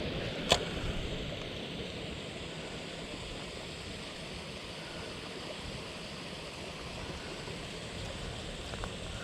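Steady rush of flowing river water, with a single sharp click about half a second in.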